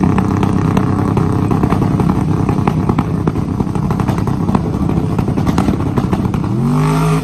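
A drag car's engine held at high revs with dense, rapid crackling. Near the end the revs swing up and back down, and the sound then cuts off abruptly.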